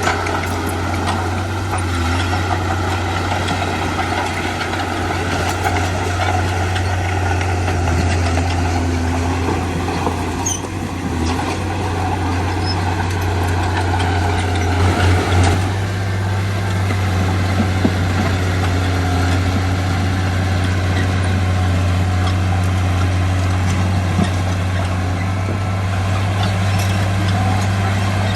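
Heavy diesel engine of construction machinery running steadily, a deep continuous hum, with a brief louder knock or clatter about halfway through.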